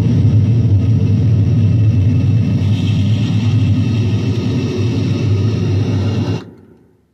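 Electronic noise music: a dense, distorted wash of noise over a heavy low hum, steady, then fading quickly to silence about six and a half seconds in.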